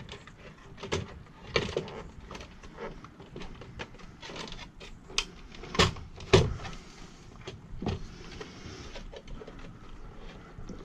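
Plastic housing parts of a car vacuum being handled and fitted together: irregular clicks and knocks, the two loudest about six seconds in.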